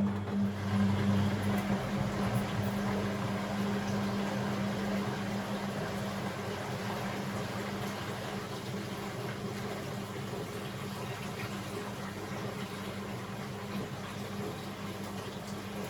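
Beko WML 71433 NP washing machine with water rushing through it over a steady hum. A deeper hum cuts out about a second and a half in, and the noise slowly fades.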